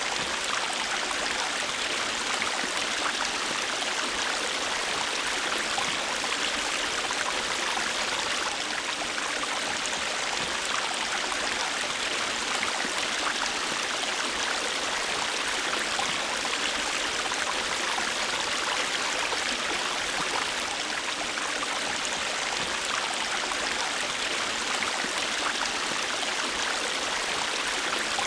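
River water flowing and splashing over rocks: a steady, even rush with fine splashes and gurgles throughout.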